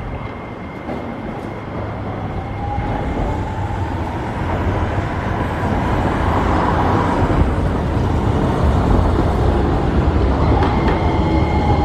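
Hiroshima Electric Railway streetcar running through its stop, its motors giving a whine that rises and then falls in pitch, over a steady rumble that grows louder about halfway through. The whine comes again near the end.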